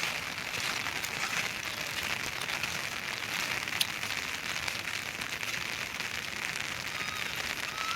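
Heavy rain falling steadily: a constant hiss dense with the pattering of drops, with one sharper tick about four seconds in. Near the end come a couple of faint short chirps.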